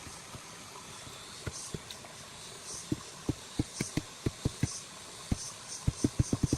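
A series of dull knocks or thuds, sparse at first, then coming about three a second, and bunching closer together near the end, over a faint steady hiss.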